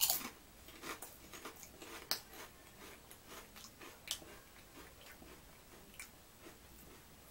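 A person chewing ripple-cut potato chips: quiet, irregular crunching, loudest at the first bite and thinning out as the mouthful is chewed down.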